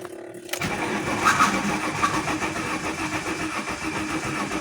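Alfa Romeo 164 2.0 V6 Turbo engine cranking on its starter motor from about half a second in. It spins fast and evenly with the compression strokes audible but never fires: the crank-no-start fault, with no fuel pressure on the gauge.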